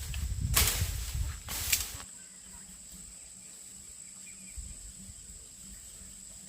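Two sharp smacks about a second apart, then a quieter steady background hiss.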